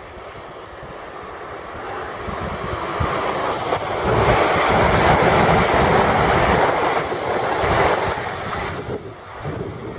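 Electric passenger train passing at speed: it builds up as it approaches, is loudest for about four seconds as the carriages go by, then falls away near the end.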